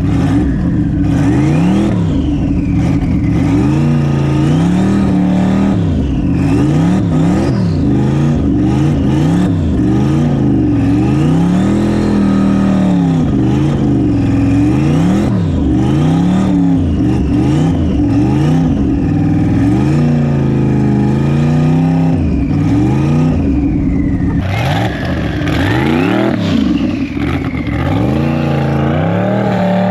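Twin-turbo LS V8 in an E36 BMW revving hard over and over, the engine speed climbing and dropping every second or two as the car is kept spinning its wheels and sliding sideways through snow. A brighter hiss joins over the last few seconds.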